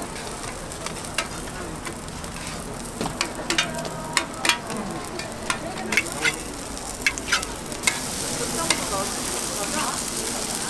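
Susu bukkumi (sorghum pancakes) sizzling in a shallow pool of oil on a flat steel griddle. A steady hiss is broken by a run of sharp clicks and ticks, most of them in the middle.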